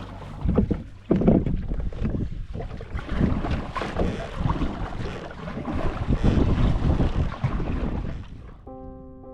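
Gusty wind buffeting the microphone, rising and falling in irregular swells. Music starts near the end.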